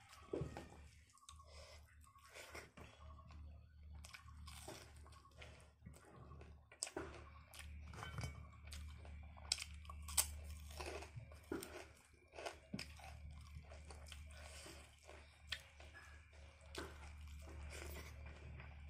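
A person eating a rice meal by hand close to the microphone: chewing with irregular crunches and wet mouth clicks, over a steady low hum.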